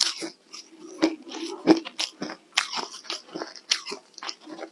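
Ice being bitten and chewed close to the microphone: a string of irregular, crisp crunches, a few a second.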